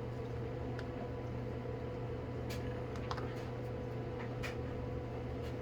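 A few light clicks and taps from small plastic containers being handled, over a steady low electrical hum.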